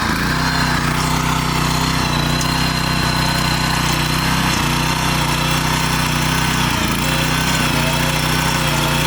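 Single-cylinder 420 cc petrol engine of a walking tractor running steadily at an even speed.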